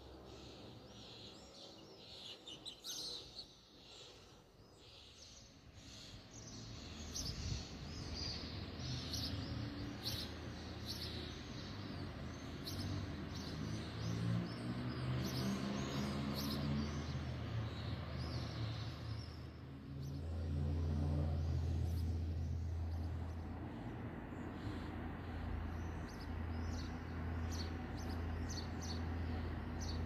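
Small songbirds chirping and tweeting in quick, repeated calls. A low, steady droning hum comes in after a few seconds and is loudest about two-thirds of the way through.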